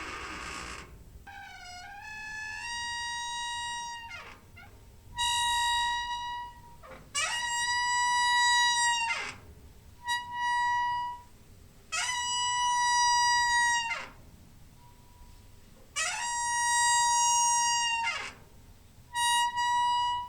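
Creaking door hinge squeaking again and again: about eight long, high squeaks, most held at a steady pitch for one to two seconds, several sliding down in pitch as they end, with short pauses between them.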